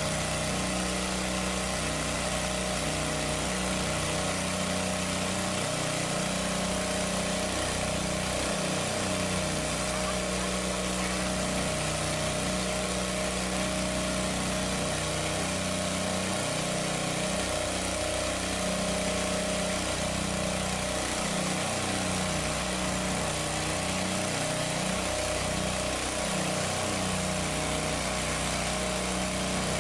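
Small engine running steadily at a constant speed, an even, unbroken hum.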